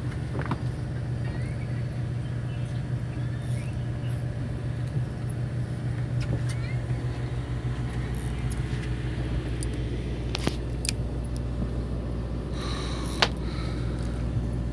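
Steady low hum of a fishing boat's engine running, with a few sharp knocks and a brief rustle near the end.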